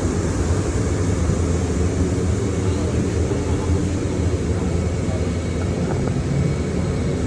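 A steady, loud low machine drone, like a motor running continuously.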